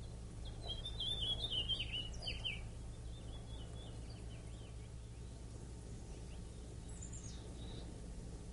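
Small birds chirping and twittering in a quick burst over the first couple of seconds, with a few faint calls again near the end, over a steady low background hum.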